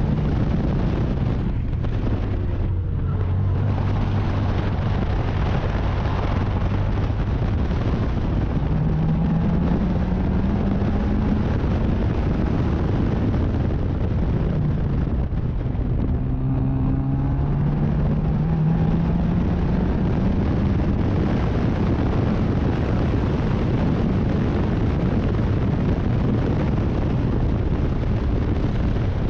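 Race car engine running hard at speed, its note holding steady, then climbing with acceleration and dropping back at lifts or gear changes, several times over. Heavy wind noise on the microphone runs under it.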